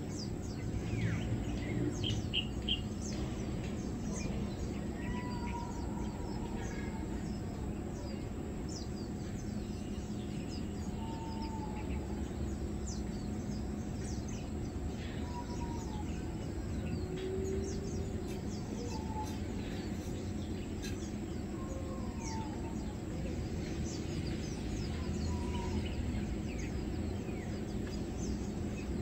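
Short bird call notes repeated every few seconds, with a brief burst of higher chirps about two seconds in, over a steady low background rumble.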